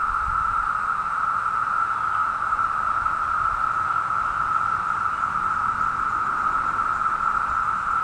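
A dense chorus of 17-year periodical cicadas (Brood II): a loud, steady, unbroken drone held at one pitch.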